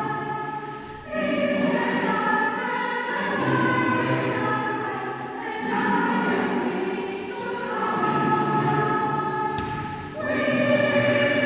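A choir singing held chords in phrases of about two seconds, with short breaths between them. There is a brief thump near the end.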